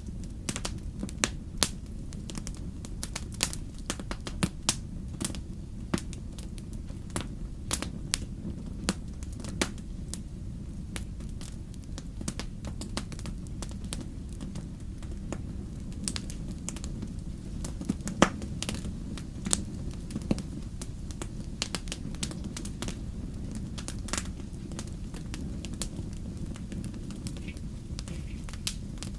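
Fireplace fire crackling: irregular sharp pops and snaps, some louder than others, over a steady low rumble of the flames.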